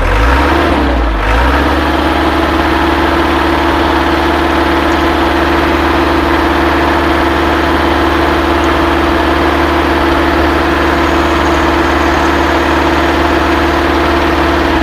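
Boom truck's engine running, driving its hydraulic pump through the PTO as the telescopic boom extends. A steady hum with a steady pump whine that settles in about a second and a half in.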